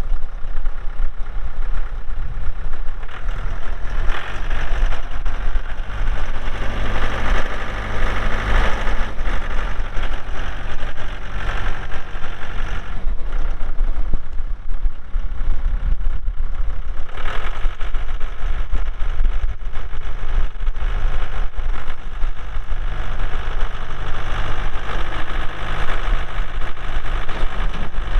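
Mahindra 3650P tractor's diesel engine running steadily, with its sound getting louder and fuller for stretches from about four seconds in and again around seventeen seconds.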